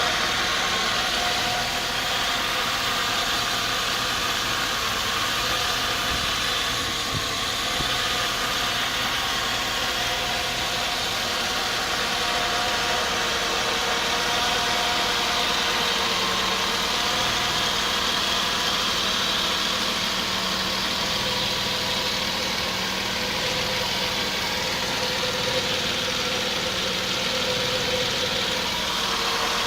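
Mercedes-Benz M104 straight-six engine idling steadily when hot, heard from underneath the car. No distinct oil pump whine stands out; it is just general running noise.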